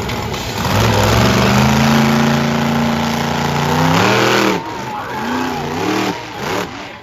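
Monster truck engine at high throttle: it holds high revs for a few seconds, rises once more and drops off, then gives a few short blips of the throttle.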